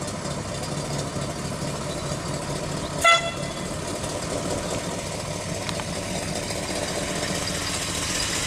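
350 small-block Chevy V8 idling steadily through dual exhaust, with one short horn toot about three seconds in.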